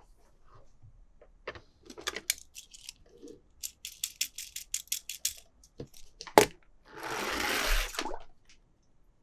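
Hands handling plastic toy cars and packaging: scattered clicks, then a quick run of about a dozen clicks, a single sharp snap about six seconds in, and about a second of rustling near the end.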